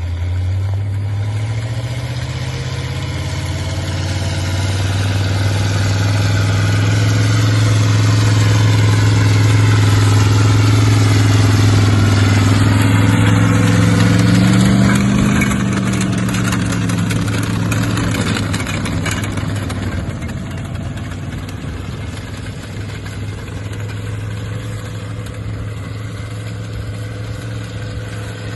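Linn half-track tractor's engine running under load as the tractor crosses the muskeg and passes by. It grows louder for the first half, drops in pitch about halfway, then slowly fades as it moves off.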